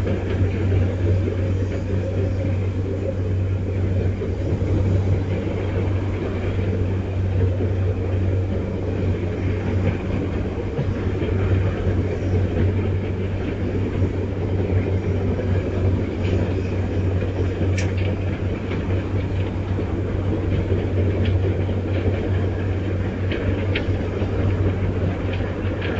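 Strong wind gusting in the open air and buffeting the microphone: a steady low rumble whose level rises and falls slightly.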